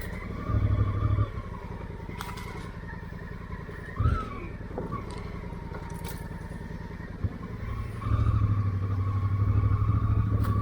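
Honda Africa Twin motorcycle engine running on the move, swelling louder briefly about half a second in and again for the last couple of seconds as the throttle opens, with a few sharp knocks along the way.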